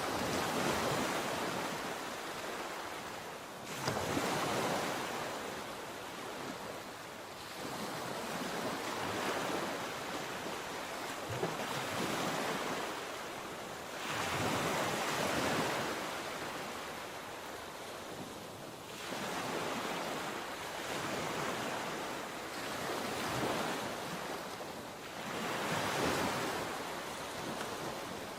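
Sea waves breaking and washing on the shore, surging and easing again every few seconds.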